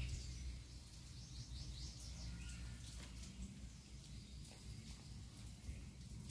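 Faint bird chirping, with a quick run of short high calls about a second in, over a low rumble and a few light clicks.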